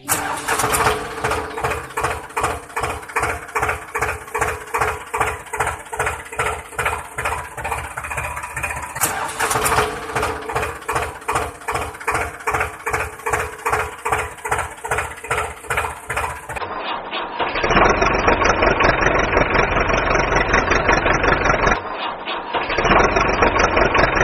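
Tractor engine chugging in slow, even beats, about two to three a second, then from about two-thirds of the way through running faster and denser, with a brief drop near the end.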